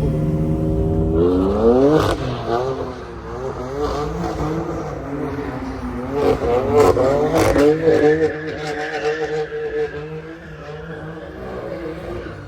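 A car engine revved hard as the car spins: the pitch climbs about a second in, then rises and falls again and again, with a few sharp cracks around two and seven seconds in, and the sound fades near the end.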